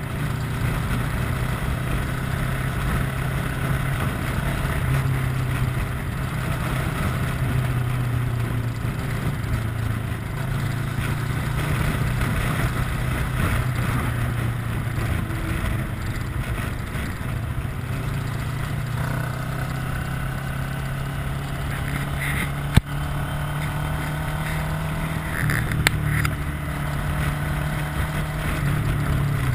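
Kawasaki ER-6n motorcycle's parallel-twin engine running at a steady cruise, with wind and road rush over it and small throttle changes along the way. A single sharp click about three-quarters of the way through.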